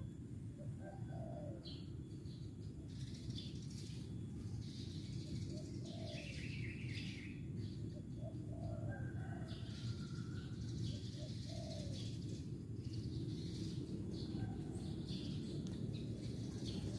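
Outdoor birdsong: doves giving short low coos every second or two, with smaller birds chirping higher up, over a steady low background rumble.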